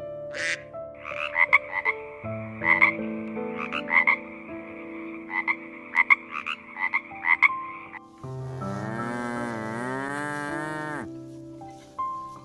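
A frog croaking in a run of short repeated calls, then a cow giving one long moo that dips and rises in pitch near the end.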